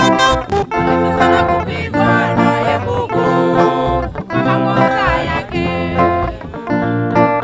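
Swahili gospel song: plucked guitar-led music with a singing voice.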